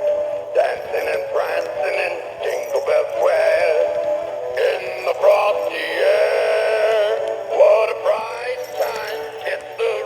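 Battery-powered singing Christmas toy playing its song on low batteries, a synthetic-sounding male singing voice over music, its pitch wavering and warbling.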